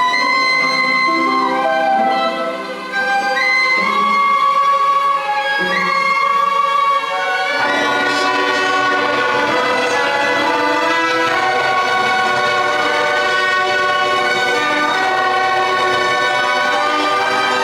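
Student ensemble orchestra of strings, woodwinds and brass playing a classical piece in sustained, melodic phrases. The lower instruments come in fuller about eight seconds in.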